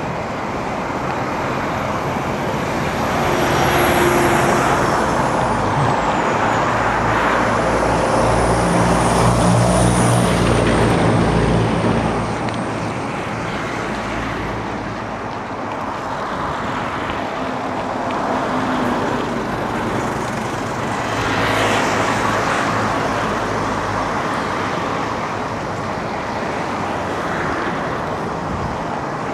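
Road traffic passing a cyclist: a steady rush of motor vehicles, swelling as vehicles go by, with the hum of a passing engine around a third of the way in and another loud pass about three quarters of the way through.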